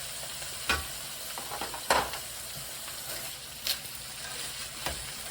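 Food frying in a pan, a steady sizzling hiss, with four sharp knocks or clicks spread through it, the loudest about two seconds in.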